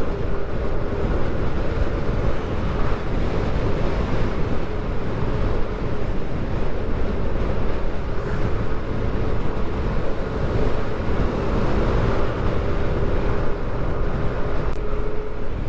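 Motorcycle riding at highway speed: heavy wind rushing over the microphone over a steady engine drone.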